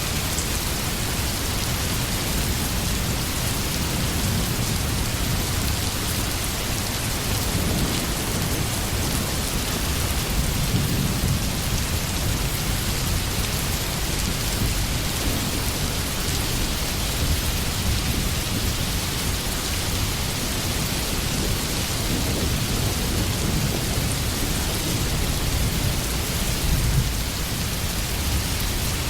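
Steady rain hiss with low rolling thunder rumbles underneath, swelling about ten seconds in and again near the end.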